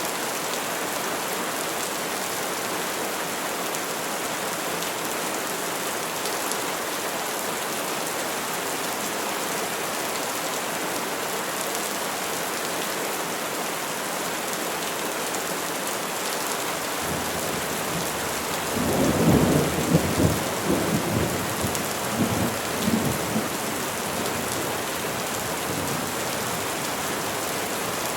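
Steady rain falling on trees. About two-thirds of the way through, a roll of thunder rumbles in, peaking loudly several times before fading.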